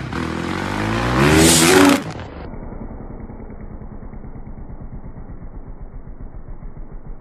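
Dirt bike engine revving up, its pitch rising for about two seconds. Then an abrupt cut to a quieter, muffled low engine rumble with a pulsing beat.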